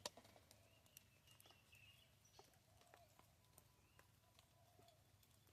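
Near silence with faint, scattered ticks of pheasants pecking seed off the ground, and a few faint bird calls.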